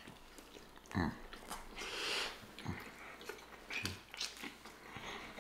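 Close-miked chewing and lip smacking of two people eating chili cheese sausage dogs, with scattered wet mouth clicks.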